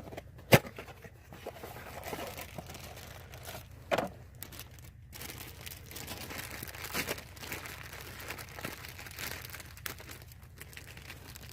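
Packaging of a new evap purge valve being opened and handled: plastic and paper crinkling and tearing, with a sharp click about half a second in and a thump about four seconds in.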